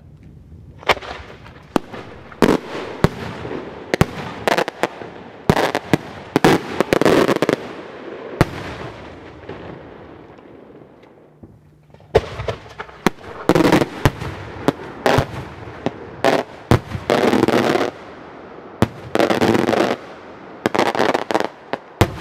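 Daytime aerial firework shells (Maltese beraq) bursting overhead in quick salvos of loud sharp bangs, some running together into dense crackling patches. The first volley starts about a second in, there is a lull around the middle, and a second volley runs from about twelve seconds on.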